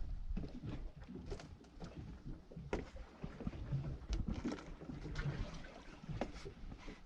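Irregular clicks and knocks from handled gear on a small fishing boat, over a low rumble with some water sound.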